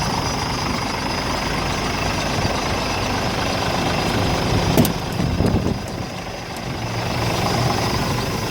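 Scania R410 truck's 13-litre six-cylinder diesel engine idling steadily, with a sharp click about five seconds in.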